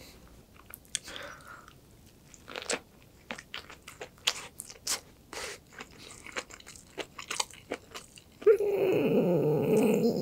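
A man chewing a mouthful of seaweed-wrapped rice with kimchi, giving a string of short crunchy, wet clicks. About eight and a half seconds in he breaks into loud, wavering crying.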